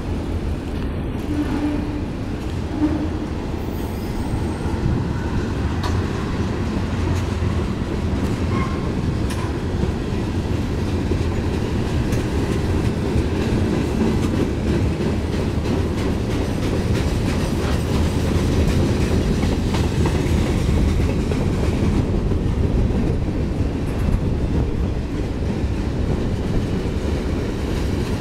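Freight cars of a long, slow freight train rolling past: autoracks, covered hoppers and tank cars, their steel wheels running steadily on the rails with some clickety-clack. A brief sharp knock comes about three seconds in and another near the end.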